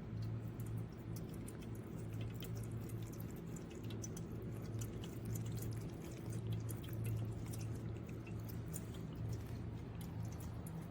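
Stainless steel cat water fountain running: a steady low pump hum under continual trickling and dripping water with many small splashes.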